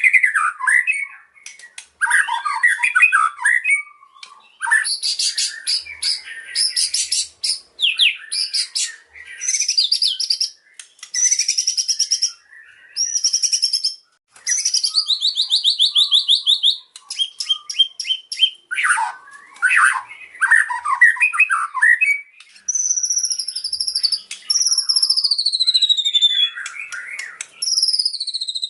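White-rumped shama (murai batu) singing a loud, varied song of quick phrases, rapid trills and whistles. Near the end come several long whistles that fall in pitch.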